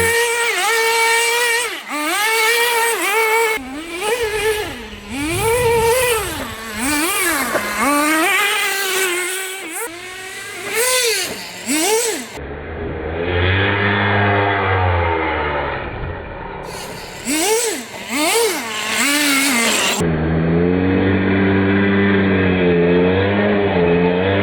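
HPI WR8 nitro rally car's small glow-fuel engine revving up and down over and over, its high-pitched whine climbing and dropping with the throttle. Twice it gives way to a lower, steadier drone of a few seconds each, about halfway through and again near the end.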